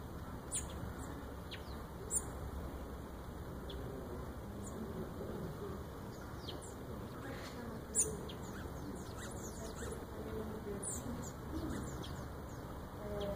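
Small birds giving short, high, sharp chirps, scattered at first and coming thicker in the second half.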